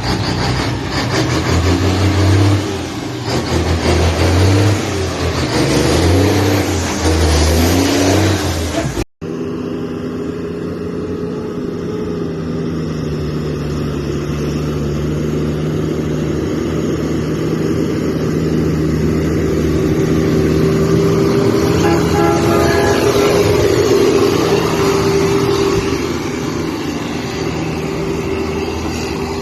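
Mack truck diesel engines: first an uneven engine sound with low pulses and shifting pitch, then, after an abrupt cut about nine seconds in, a steady engine drone holding one pitch.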